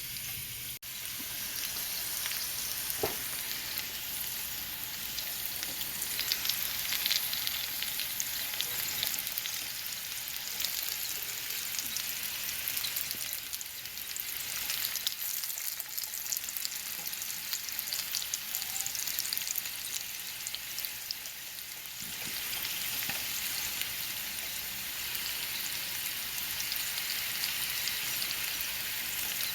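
Potato slices frying in olive oil in a skillet: steady sizzling with fine crackling throughout.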